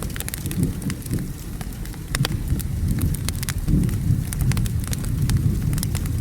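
Wood fire crackling with frequent sharp pops over steady rain, with a low rolling rumble of thunder swelling and fading underneath.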